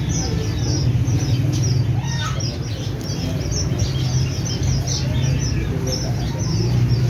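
Birds chirping: many short, high-pitched chirps in quick succession, over a steady low hum.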